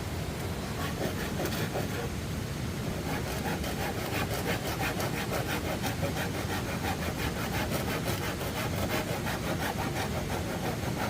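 Hand saw cutting through wood in fast, even back-and-forth strokes, which grow stronger a few seconds in and keep a steady rhythm.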